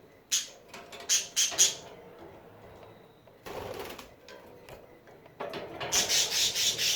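Budgie scratching and scraping with its beak: short scratchy rasping strokes, in a quick cluster about a second in and a faster run near the end.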